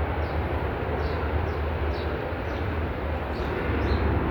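Airplane taking off, a steady deep rumbling noise that builds slightly near the end.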